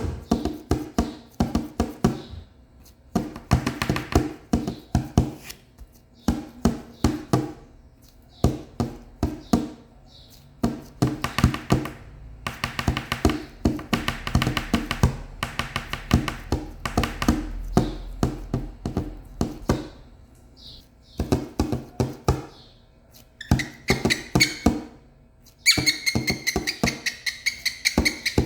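Cockatiel drumming: quick runs of sharp taps in bursts of a second or two, with short pauses between. From about two thirds of the way in, a high steady pitched sound with overtones joins the tapping.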